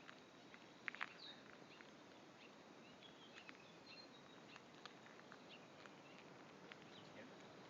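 Near silence with faint scattered light clicks, two sharper ones about a second in, and a few brief faint high chirps.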